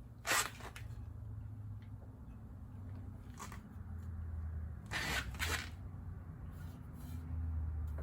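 A low steady hum with a few short clatters and scrapes: one about a quarter second in, one in the middle, a louder pair about five seconds in and a faint one near the end.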